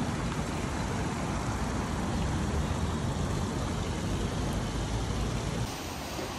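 Steady rushing and splashing of water from a fountain, dipping slightly near the end.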